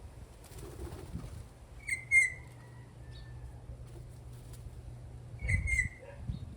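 Venezuelan troupial giving short, sharp calls in two brief bursts, about 2 seconds and 5.5 seconds in, the first the loudest. Low thumps come with the second burst, over a steady low hum.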